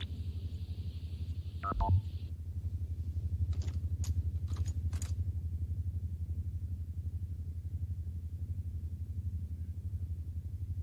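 Science-fiction soundtrack effects: a steady, fast-pulsing low electronic hum. A hiss cuts off about two seconds in, with a sharp falling electronic sound at about the same time, then a few short electronic beeps.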